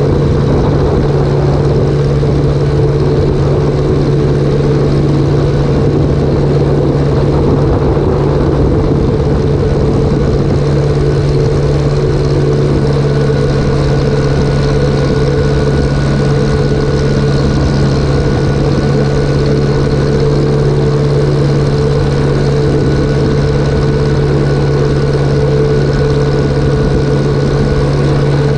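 Engine of the machinery spreading chicken litter, running loud and steady at one constant speed.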